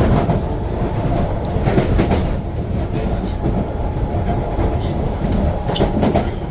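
Cabin running noise of a Kawasaki-Sifang C151B metro train under way: a steady rumble of wheels on rail with a few sharp clicks from the track.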